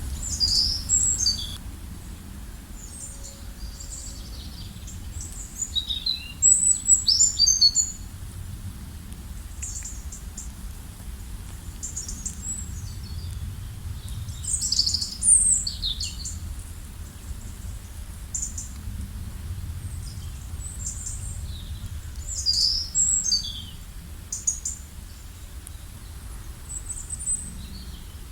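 Several small birds chirping and trilling in high, quick phrases that come in bursts every few seconds, over a steady low background rumble.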